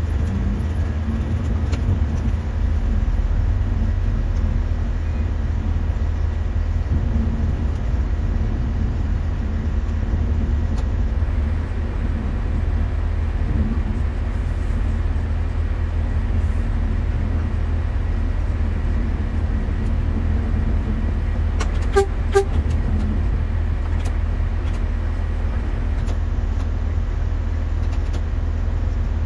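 Steady low rumble inside the cab of a track inspection train moving slowly over the rails. A little past two-thirds of the way through, two short horn toots sound close together.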